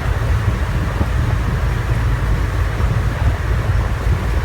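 River boat's engine running steadily, a low rumble under the rush of wind on the microphone.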